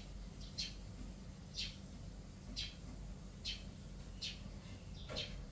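A bird calling: short, high chirps that drop in pitch, about seven of them roughly a second apart, over a low steady rumble.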